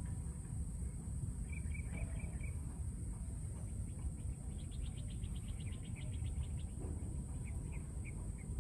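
Outdoor animal sounds: runs of short, high chirps, one a fast train of about twenty notes dropping in pitch, over a steady high insect drone and a low steady rumble.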